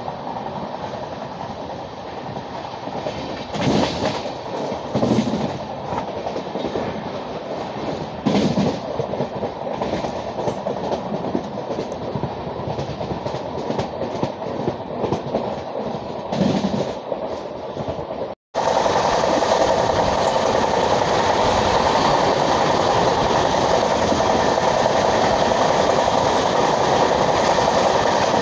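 Express train's LHB coaches running along the track, a steady rumble with a few heavy clacks over rail joints. About two-thirds of the way through the sound cuts abruptly to a louder, steadier rush of running noise.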